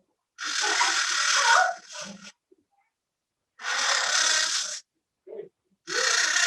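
A parrot screeching: three harsh calls, each a little over a second long, with short gaps between them.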